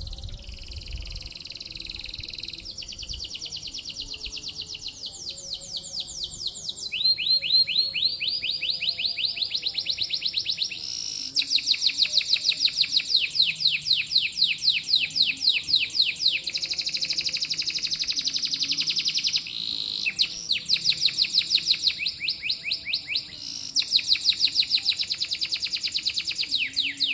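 Domestic canary singing a long, continuous song of rapid trills, switching from one rolled phrase to the next every few seconds; one phrase about a quarter of the way in climbs steadily in pitch.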